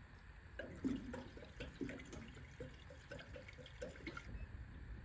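Gasoline being poured into the Stihl BR600 backpack blower's fuel tank: a faint, irregular gurgling of liquid.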